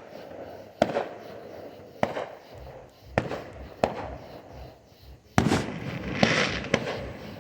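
Fireworks going off: about seven sharp bangs at uneven intervals, each followed by a ringing, echoing tail.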